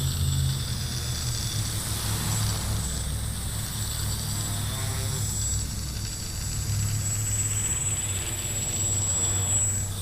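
Xaircraft X650 quadcopter's four electric motors and propellers humming in flight on a 3S battery, the pitch stepping up and down as the throttle changes.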